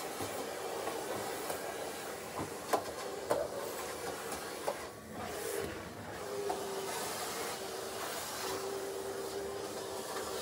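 A small machine running: a steady hiss with a faint hum that becomes clearer about halfway through, and a few light clicks.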